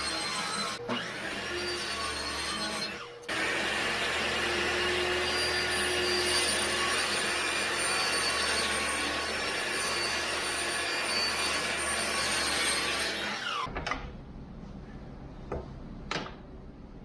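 An electric power tool running on wood with a high whine, stopping briefly about three seconds in, then switching off and winding down with a falling pitch near the end, followed by two light knocks.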